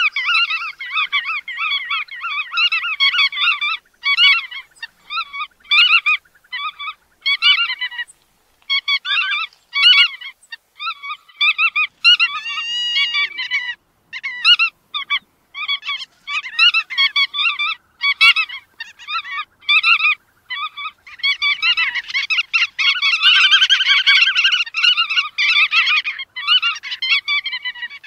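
Bar-tailed godwits calling: rapid, nasal, honking call notes repeated in quick runs with brief pauses. Several birds call at once and build to a denser chorus near the end.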